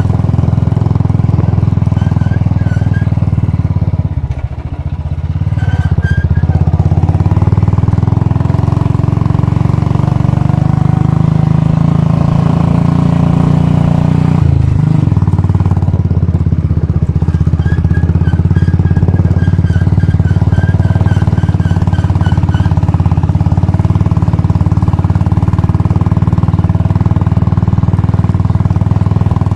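Royal Enfield Bullet's single-cylinder four-stroke engine running while the motorcycle is ridden. The engine note drops briefly about four seconds in, and shifts pitch abruptly about halfway through.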